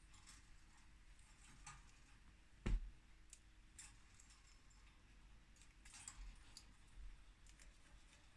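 Faint, irregular small clicks and taps from budgerigars pecking and moving about in their cage, with one louder knock about two and a half seconds in.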